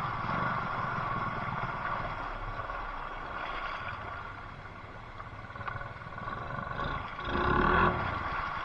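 Off-road bike engine running, growing fainter over the first few seconds, then a brief louder rev near the end.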